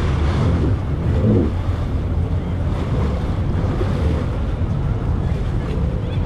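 Jet ski running across open water, its engine drone half buried under heavy wind buffeting on the microphone and rushing water. The noise stays steady throughout.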